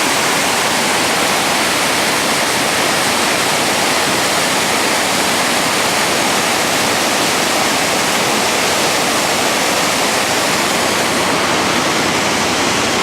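A rain-swollen river rushing steadily over a rocky cascade.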